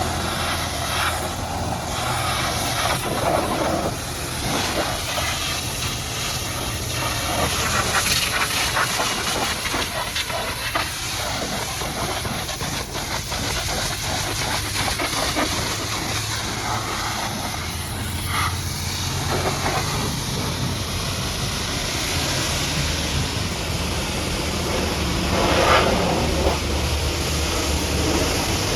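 High-pressure water jet spraying steadily against a muddy truck, a continuous hiss, over a steady low mechanical hum.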